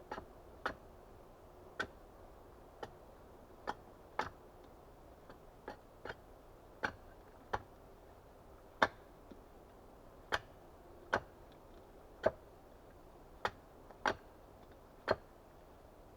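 Light axe strokes on wood: sharp, short knocks at an uneven pace of about one a second, some harder than others.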